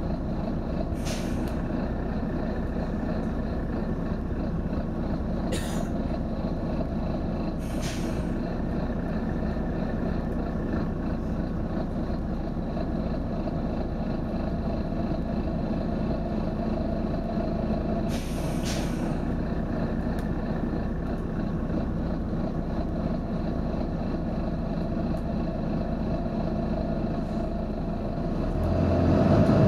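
Volvo B9TL bus's six-cylinder diesel engine running steadily, with four short bursts of compressed-air hiss from its air system. The engine gets louder near the end.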